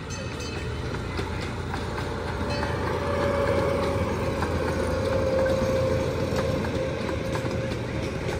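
Zoo train rolling past at close range: a steady rumble of the cars with light clicks from the wheels and a held whining tone. It grows louder about three seconds in and eases off near the end.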